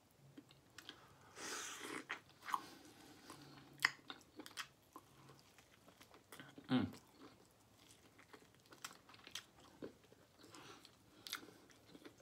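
A person biting and chewing the meat of a smoked turkey leg: soft, wet, irregular chewing with small clicks and smacks, and one louder sound about seven seconds in.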